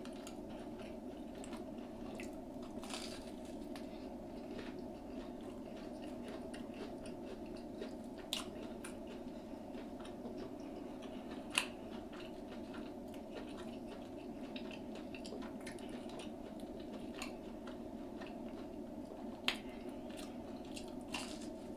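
Close-miked chewing and biting of deep-fried, beer-battered seafood, with a few short sharp clicks from the mouth and food, over a steady background hum.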